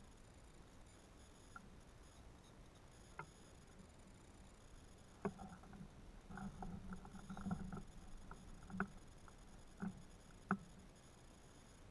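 Faint, scattered knocks and clicks, with a denser run of quick taps and scuffs in the middle.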